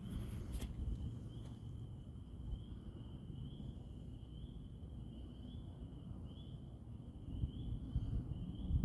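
A night insect trilling steadily at a high pitch, with a slight pulse about twice a second, over a low background rumble.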